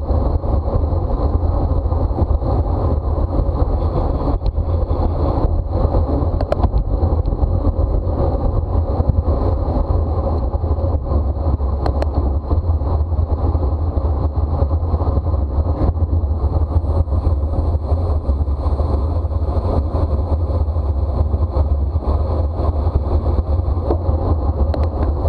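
Wind rushing over a bicycle-mounted camera's microphone while riding at race speed, a steady, heavy low rumble that holds at the same level throughout.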